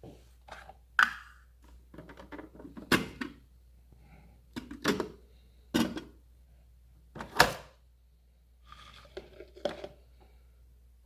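Plastic clicks and knocks from a Nespresso De'Longhi Essenza Mini capsule coffee machine being handled, about seven or eight separate strokes with no pump running between them.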